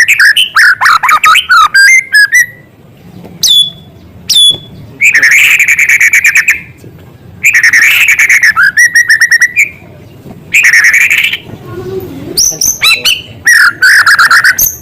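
White-rumped shama (murai batu) singing at full volume, a rich song of rapid trilled phrases about a second long with short pauses between them. The song is mixed with sharp downward whistles and fast chattering notes, the copied small-bird calls known as isian.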